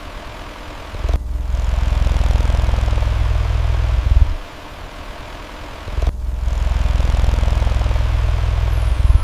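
A cat purring in two long stretches of about three seconds each, with a pause of about two seconds between them, over the steady rush of an electric fan.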